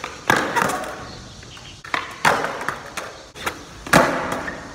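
Skateboard on the rink surface: several sharp clacks of the board hitting the ground, the loudest about four seconds in, each followed by a fading rattle of wheels rolling.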